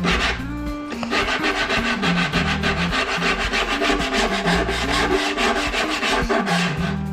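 A file rasping back and forth over a foam deer form in quick, repeated strokes, several a second, smoothing it down and knocking off sharp edges and a seam.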